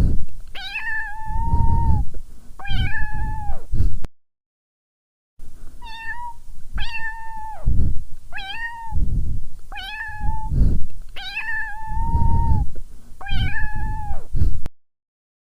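Domestic cat meowing over and over: about a dozen short meows, with a pause of about a second a few seconds in. Low rumbling noise sits under each call, and the meowing stops shortly before the end.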